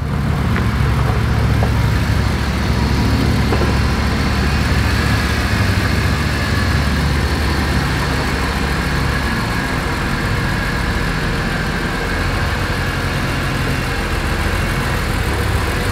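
Car engine idling steadily, a low even rumble that eases slightly about nine seconds in.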